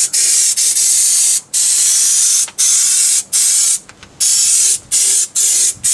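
Aerosol can of brake cleaner spraying a loud hiss in about seven short bursts, the longest about a second and a half, degreasing a differential housing's gasket surface.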